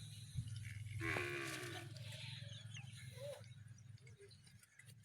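A calf calls once, a short moo about a second in, over a steady low hum.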